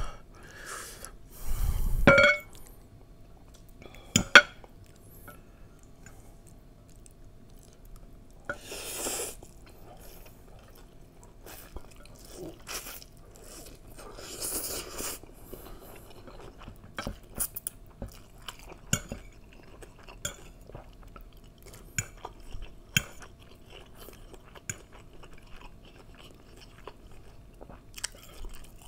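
Close-miked chewing of instant fried noodles eaten with a fork, with many small clicks of the fork against a ceramic bowl. A brief louder thud comes about two seconds in.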